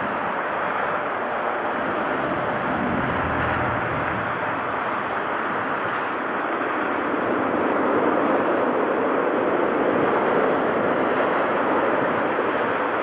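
Jet airliner engines running as a steady, noisy roar that grows a little louder about two-thirds of the way through.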